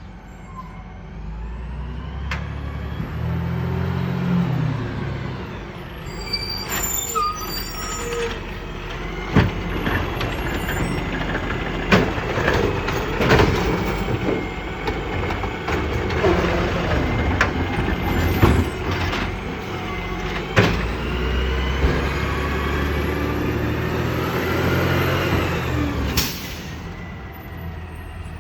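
Crane Carrier LET1 garbage truck with a Pendpac body working a recycling route: its diesel engine revs up and back down twice, once near the start and again near the end, with sharp clanks and bangs between, and a short hiss near the end.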